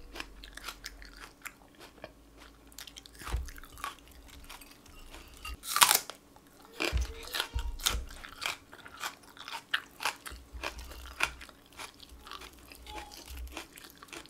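Close-miked eating sounds: crunchy chewing and biting in scattered short clicks, with a louder crunch about six seconds in.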